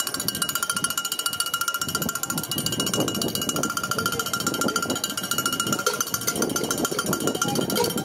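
A metal bell struck in a fast, even rhythm, ringing at a steady pitch, with a crowd of voices joining in about two seconds in.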